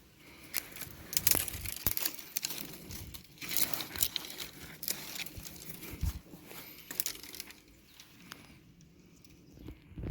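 Dry twigs and tinder being handled, with irregular rustling and crackling and many sharp little clicks, easing off near the end.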